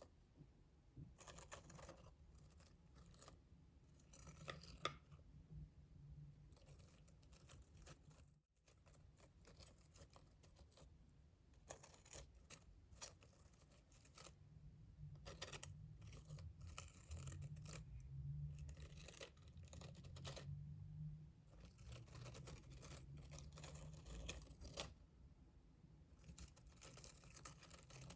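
Quiet ASMR trigger sounds close to the microphone: objects handled in irregular short scratchy, rustling strokes, in clusters with brief pauses.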